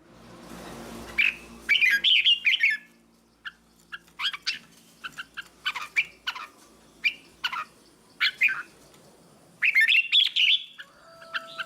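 Red-whiskered bulbul singing: bursts of short, fluty warbled phrases, with separate sharp chirps in between. A brief hiss sounds at the start.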